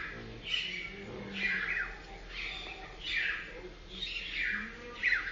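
Birds chirping: a run of short calls, each falling in pitch, repeating about once or twice a second.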